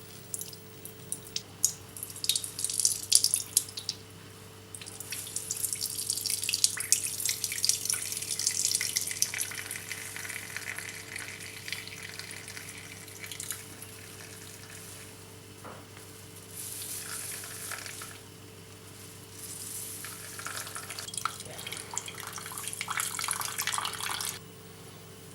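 Kitchen water running and splashing in several spells, with small clicks and knocks in the first few seconds, over a faint steady hum.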